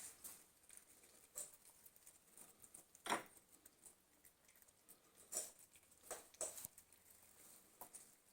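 Cats eating treats: faint, irregular crunching clicks and taps, the loudest about three seconds in and a cluster between five and seven seconds.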